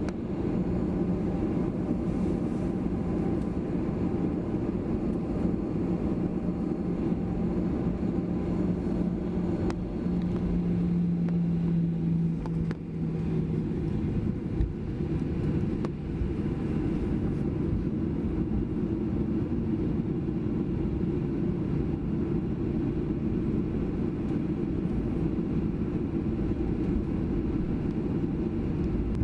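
Steady cabin noise inside a Boeing 737-800: a low rumble of the CFM56 jet engines and air conditioning, with a low steady hum that stops about halfway through.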